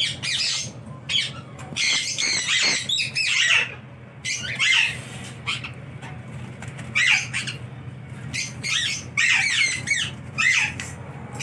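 Sun conure giving repeated harsh, screechy squawks at irregular intervals, with a dense run of calls a couple of seconds in. A steady low hum runs underneath.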